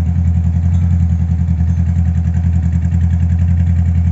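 Honda CB500F parallel-twin motorcycle idling through its exhaust, a steady, low, evenly pulsing note.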